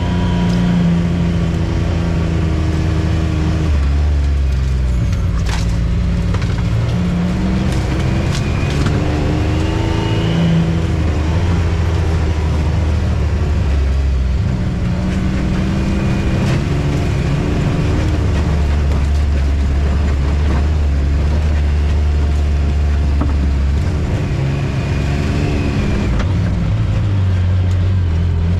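Off-road ATV or side-by-side engine running under way on a trail, its revs rising and falling several times as the throttle changes.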